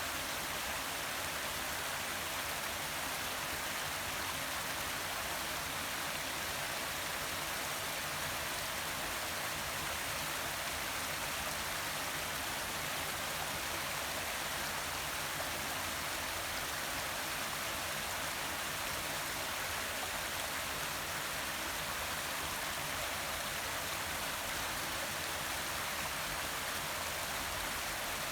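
Forest waterfall, water pouring and splashing in a steady, even rush with no breaks.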